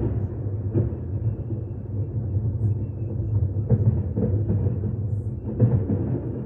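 Aerial fireworks bursting: a continuous low rumble with irregular louder booms standing out over it.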